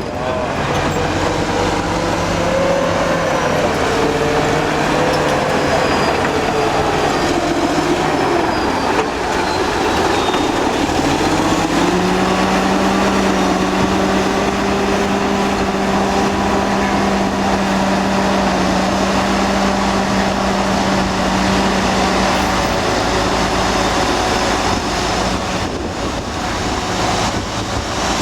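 Old Caterpillar D8 bulldozer's diesel engine working under load. Its pitch wavers and sags about a third of the way in, rises again just before the middle and holds steady, then eases down near the end.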